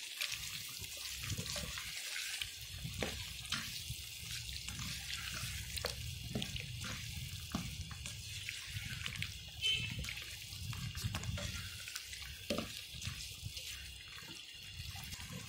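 Chicken in cream, yogurt and oil simmering and sizzling in a non-stick pan, a steady hiss, while a spatula stirs it, with scattered scrapes and taps of the spatula on the pan.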